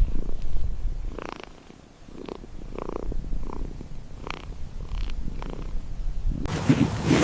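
An animal's short calls, repeated irregularly about every half second to a second, over a low rumble. Near the end it cuts suddenly to a different outdoor noise.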